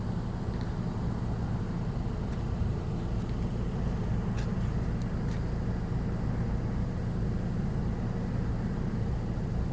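Steady low outdoor rumble with no clear pitch, with a few faint ticks about halfway through.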